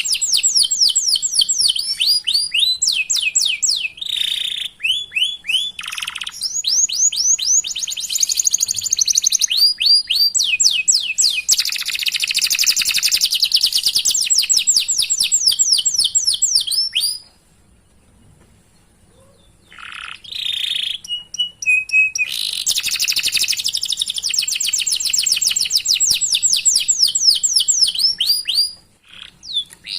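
Domestic canary singing a long rolling song of rapid repeated 'cuit-cuit' chirps and high trills. The song breaks off for about two and a half seconds past the middle, then resumes with more trilled runs.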